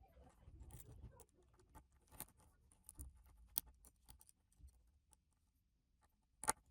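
Quiet handling noise of small objects on a table: soft rustling and scattered light ticks, with one sharper click near the end.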